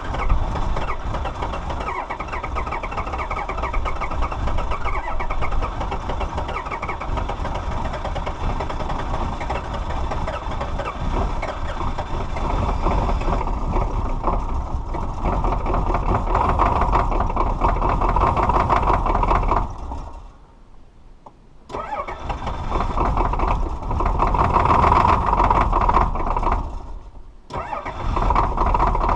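Diesel car engines started from cold, running with a rapid, rough clatter. There is a short break about two-thirds of the way through and another near the end, where one clip gives way to the next.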